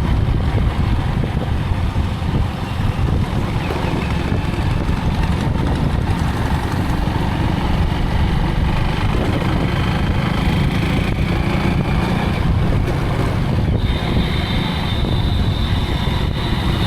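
Riding on a motorcycle: steady wind rumble on the microphone over the bike's running engine and road noise. A high steady tone joins for the last few seconds.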